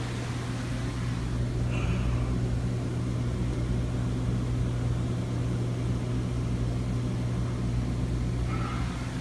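A steady low machine hum, with no change in level and no distinct events, of the kind made by refrigeration machinery running nearby.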